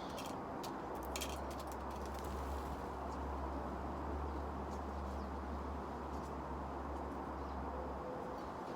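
Wind blowing over an outdoor microphone, a steady rushing noise with a low rumble from about a second in until near the end. A few short sharp clicks or chirps sound in the first second and a half.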